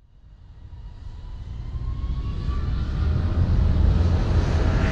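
A low rumbling, rushing noise that fades in from silence and grows steadily louder over the first few seconds.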